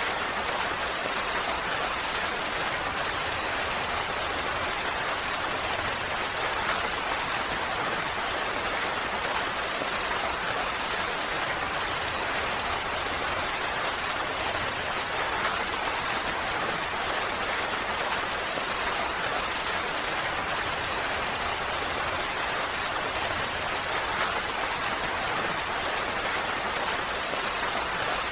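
Steady rain falling: an even hiss with a few faint drop ticks here and there.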